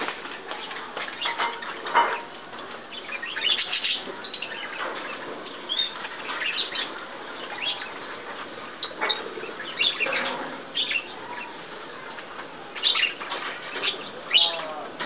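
Several birds chirping and calling in short, irregular bursts over a constant background chatter of more birds.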